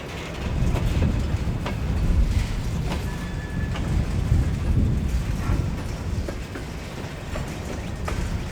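Freight train cars rolling: a steady low rumble with irregular clicks and clanks from wheels and couplings.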